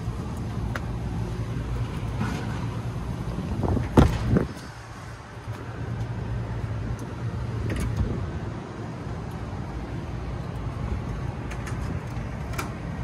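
A steady low rumble of background machinery or traffic, with one sharp knock about four seconds in and a few light clicks.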